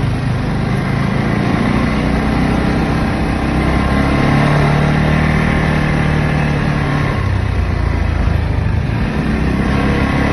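ATV engine running under throttle, its note rising and strengthening a couple of seconds in, then dropping back about seven seconds in.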